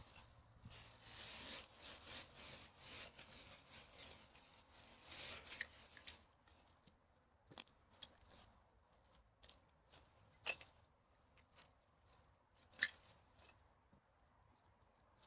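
Rustling and crackling of dry forest litter and rubbish being handled, dense for about six seconds, then a few scattered sharp snaps and clicks.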